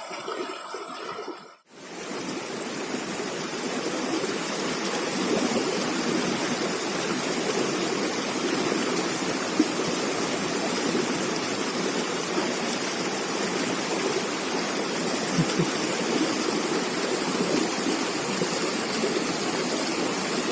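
Steady rush of flowing river water, starting after a brief drop-out about one and a half seconds in.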